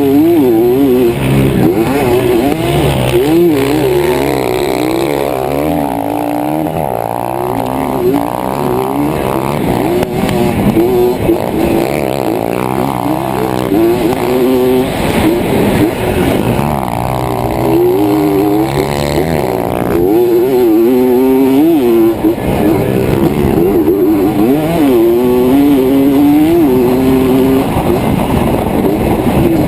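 Two-stroke Yamaha dirt bike engine revving hard, its pitch climbing and dropping again every second or two as the throttle is worked.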